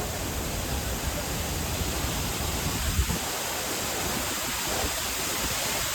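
Waterfall rushing up close: a steady, dense hiss of falling water, with a brief knock about halfway through.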